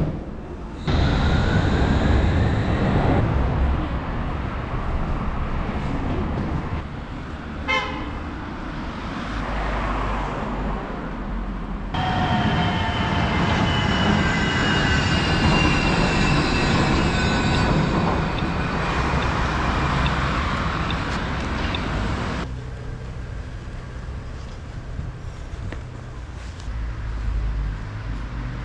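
Urban ambience in several short clips. In the middle a train passes with a drawn-out metallic squeal of steel wheels, its pitch slowly falling.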